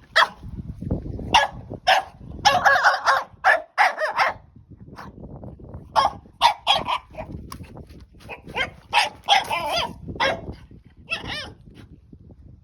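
French bulldog puppy barking and yapping in many quick short bursts, worked up over a stick.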